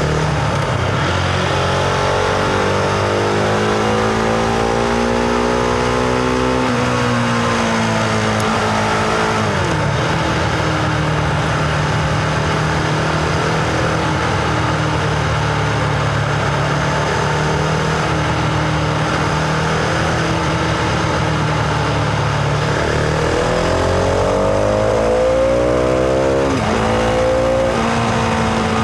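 Husqvarna Vitpilen 701's single-cylinder engine under way: it pulls up through the revs, drops twice in quick succession around seven and nine seconds in, holds a steady cruise, then revs up again about twenty-three seconds in and drops once more near the end.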